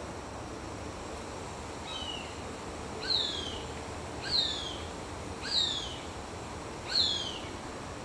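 An unidentified bird calling: a faint, short, high cry, then four louder ones, each a quick downward slur, repeated about every second and a half.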